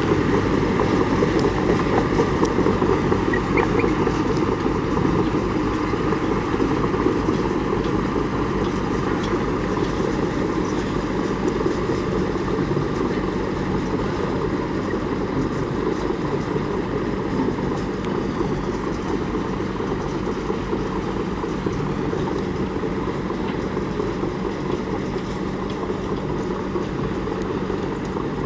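Komatsu D31P bulldozer's diesel engine running steadily, slowly growing a little fainter.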